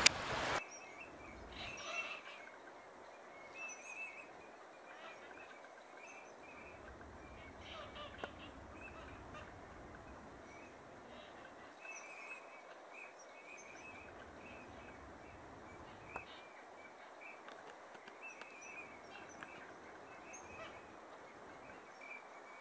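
Faint bird calls: short notes repeated in scattered clusters over a steady outdoor background noise.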